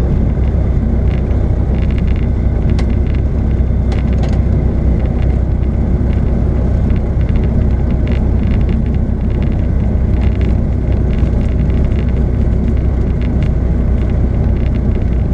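Steady, loud, low engine drone heard from inside a vehicle's cabin, unchanging throughout, with faint scattered ticks and rattles above it.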